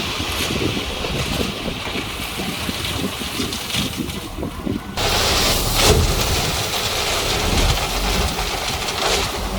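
Bulldozer's diesel engine running with a low rumble, wind buffeting the microphone. The sound changes abruptly about halfway through.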